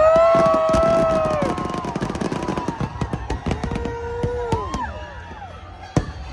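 New Year's Eve fireworks crackling and popping rapidly, with several long whistling tones that arch and fall away. The crackle thins out and quietens, then a single sharp bang comes near the end.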